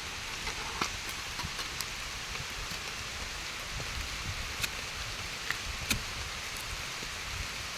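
Steady rain hiss, with scattered sharp ticks of single drops striking a nearby surface.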